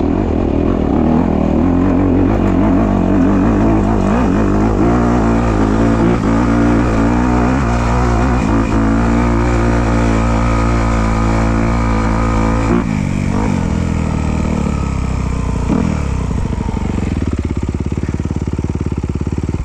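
Off-road trail motorcycle engine running close to the microphone, holding a steady note under throttle. About two-thirds through, the note drops to a lower, pulsing run.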